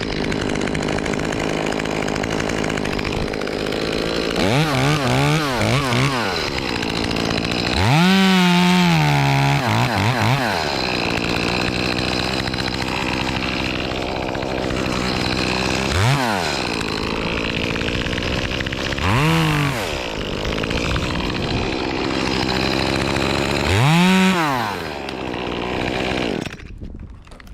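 Echo CS-2511T two-stroke top-handle chainsaw running, revved up and back down about five times while cutting wood. It falls away near the end.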